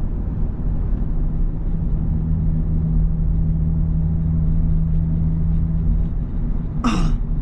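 Audi S5's 3.0-litre V6 and road noise heard while driving, a steady low drone that settles into an even hum about two seconds in. A brief sound falling in pitch cuts across it about seven seconds in.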